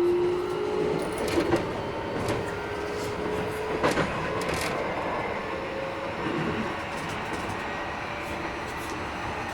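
Interior running sound of a Keikyu 1000 series train: the Mitsubishi IGBT inverter motor whine rises slightly and fades in the first second or so, under a steady running rumble. Wheels click over rail joints several times. The recordist finds this trainset a little noisier than others.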